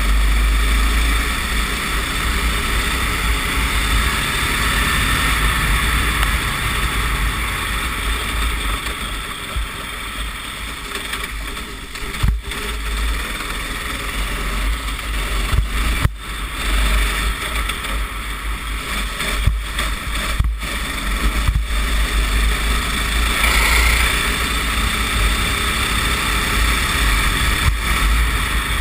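Racing kart engine running at speed on a wet track, heard onboard under heavy wind rumble on the microphone. The sound drops out briefly a few times.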